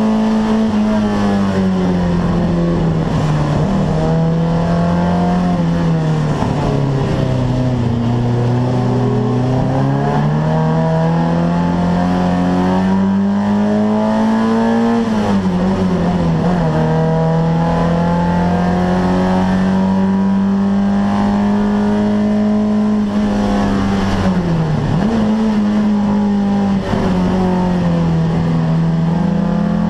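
Saab 99 inline-four engine heard from inside the stripped race car's cabin, running hard under racing load. Its pitch sinks and climbs with the throttle through the lap, dropping sharply about 15 and 25 seconds in.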